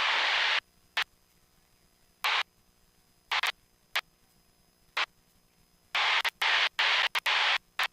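Steady hiss that cuts out suddenly, then near silence broken by short bursts of the same hiss, with a choppy run of them near the end: a headset intercom's squelch opening and closing on cockpit noise in a light aircraft.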